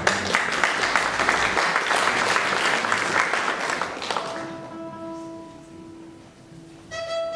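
Audience applauding for about four seconds, dying away, then a violin sounding a long held note, moving on to further notes near the end.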